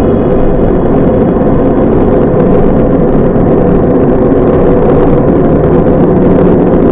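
Truck engine and road noise heard inside the cab while driving: a loud, steady drone.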